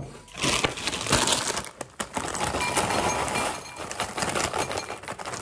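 A crinkling plastic snack bag and tortilla chips pouring into a ceramic bowl: a continuous crackling rustle with many small clicks, briefly pausing about two seconds in.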